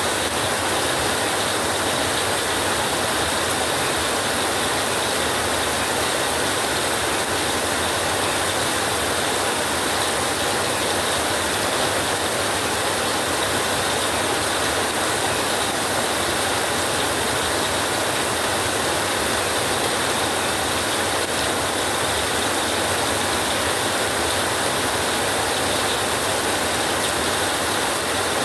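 Steady rain drumming on a tin roof, a dense, even patter that holds at one level without any rumble of thunder breaking through.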